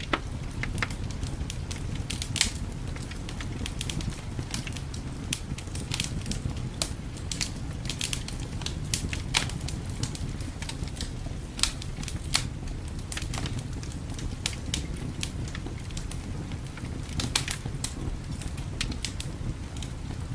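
Wood fire crackling in a fireplace, with irregular sharp pops several times a second, over a steady low rumble of winter wind.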